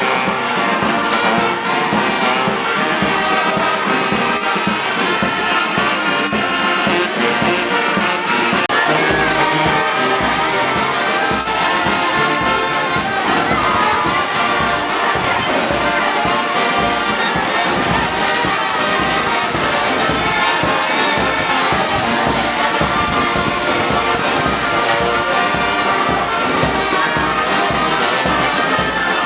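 Brass band playing march music, trumpets and trombones over a steady beat.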